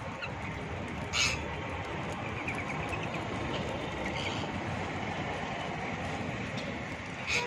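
Parrots calling: two short, loud, high calls, one about a second in and one near the end, with a few faint chirps between them, over a steady background rumble.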